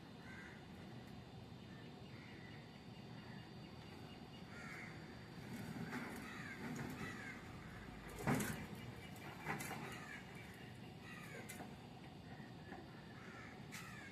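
Crows cawing repeatedly against a faint outdoor background, with two sharp knocks a little over a second apart about halfway through.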